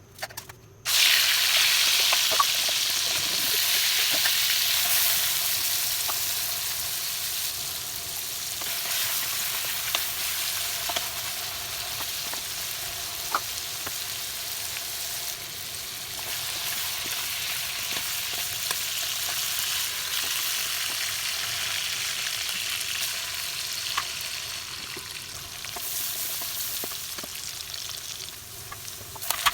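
Food frying in hot oil in a pan. The sizzle starts suddenly about a second in and is loudest at first, then settles to a steady sizzle with a few sharp ticks. It drops briefly near the end.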